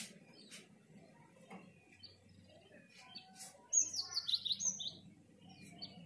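A small bird chirping: a quick run of high chirps, each falling in pitch, for about a second past the middle, with a few faint clicks around it.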